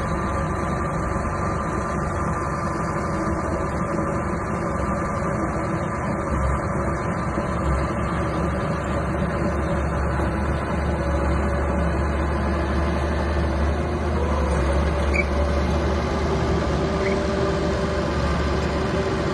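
Small bulldozer's diesel engine running steadily with a low rumble.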